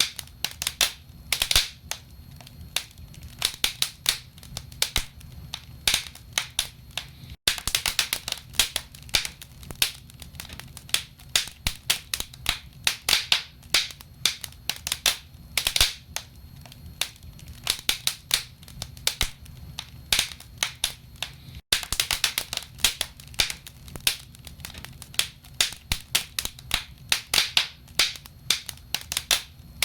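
Wood logs burning in a fireplace, crackling with many irregular sharp pops and snaps over a low, steady rumble.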